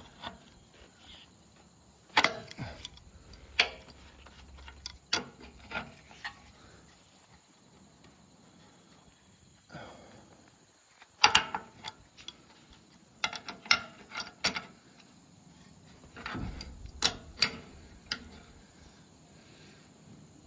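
Irregular metallic clicks and clunks, with quiet gaps between them. They come from hand work on the covers and fittings of a Hyundai Robex R55-3 excavator, whose engine is not running.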